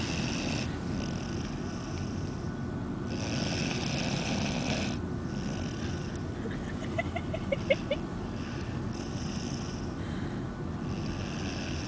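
A dog snoring in slow, drawn-out breaths every couple of seconds over the steady low rumble of a car. About seven seconds in, a few short high squeaks come in quick succession.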